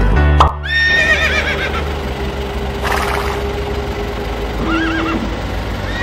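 Horse whinny sound effect, heard twice: a long quavering whinny about a second in and a shorter one near the end.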